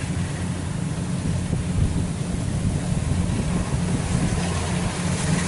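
Kubota DC-93 rice combine harvester's diesel engine and threshing machinery running steadily under load while cutting, a constant low drone with a noisy wash over it.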